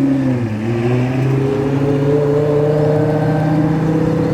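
Loud car engine pulling away at low revs, its pitch dipping briefly about half a second in and then climbing slowly and steadily as it accelerates gently.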